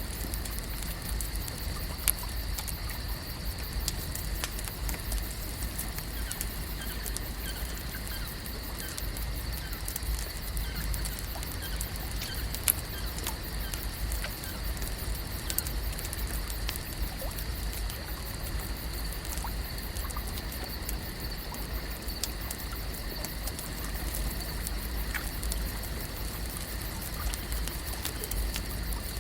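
Lake ambience: a steady low rumble under an even hiss with a constant high-pitched band, dotted with many small clicks and ticks and light trickling water.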